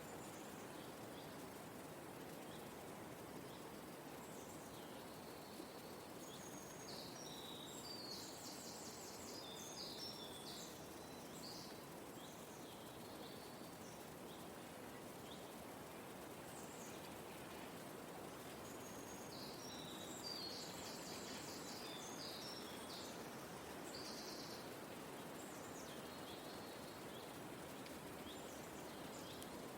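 Forest ambience: a soft, steady breeze-like hiss, with small birds chirping and trilling in two bouts, about a quarter of the way in and again past the middle.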